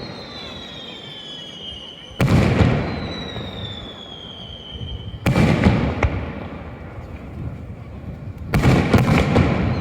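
Fireworks shells bursting overhead: three sharp booms about three seconds apart, each trailing off in a rumbling echo over a second or so. After each burst a high tone slowly falls in pitch.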